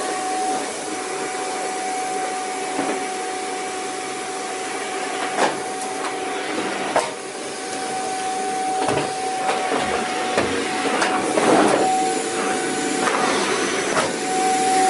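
Vacuum cleaner running with a steady whine over its rushing noise, with a couple of sharp knocks and then more frequent clattering knocks in the second half.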